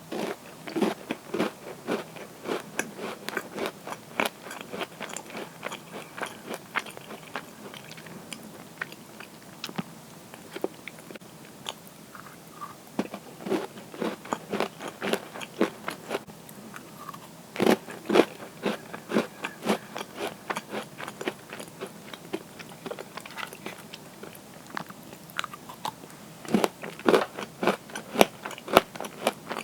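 Close-miked crunching and chewing of crisp cookies: quick runs of crackly bites and chews, broken by a few quieter spells of softer chewing.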